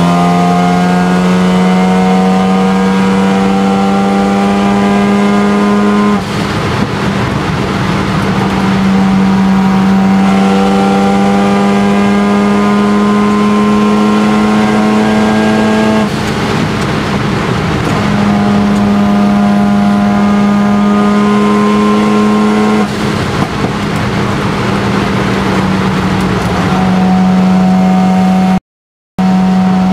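Mazda RX-7 FD3S's single-turbo 13B rotary engine heard from the cockpit, pulling hard in long, slowly rising stretches. Three times the engine tone breaks off into a rushing noise for a second or more before the next pull. The sound cuts out completely for a moment near the end.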